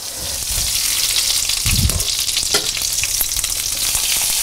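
Duck foie gras escalopes sizzling steadily in their own hot fat in a frying pan on full heat. A few low knocks come about two seconds in.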